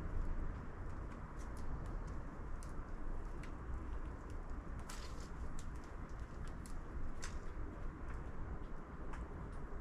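Sparrows at a 3D-printed plastic bird feeder: irregular light clicks and taps of pecking at seed, about a dozen, over a steady low background rumble.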